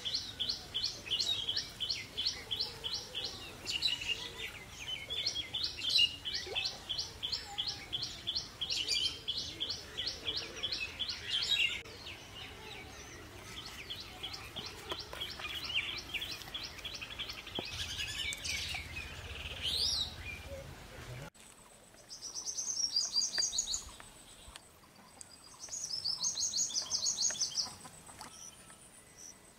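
A bird calling in long rapid series of sharp, high chirps, several a second, with brief breaks between series. About two-thirds of the way in, the background noise drops away suddenly and two short high trills follow a few seconds apart.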